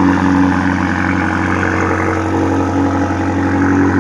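BMW M5 Competition's twin-turbo V8 idling steadily.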